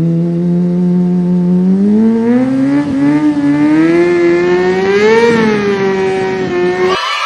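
A vehicle engine revving up, its pitch climbing slowly for about five seconds, then holding before it cuts off abruptly near the end.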